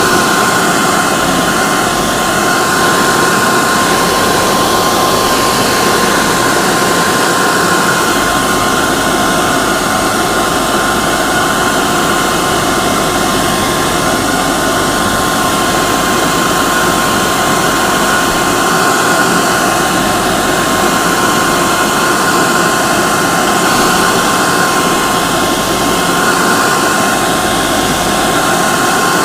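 Hair dryer running continuously: a loud, even rush of blown air with a steady motor whine held on one pitch.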